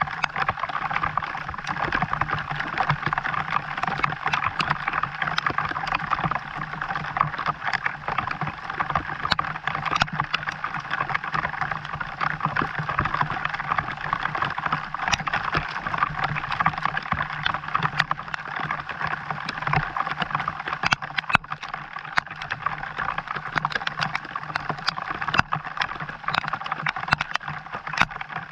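Steady rain falling, with many sharp drop hits over a constant rushing hiss and a low steady hum underneath.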